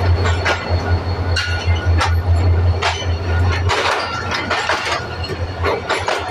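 Pakistan Railways diesel locomotive and passenger coaches passing close by. The locomotive's deep engine drone dominates until a little past halfway, then fades as the coaches roll past, with repeated clicks and knocks from wheels and couplings.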